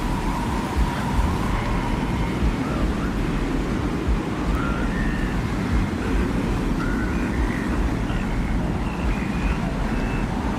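Desert wind ambience: a steady, deep rumbling wind with faint, short whistling tones drifting in and out above it.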